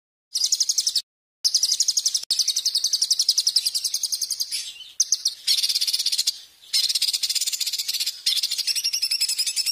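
Songbird tutoring recording: a small songbird's fast, harsh trill of high-pitched notes, many a second, given in long runs that stop and restart abruptly with short silent gaps.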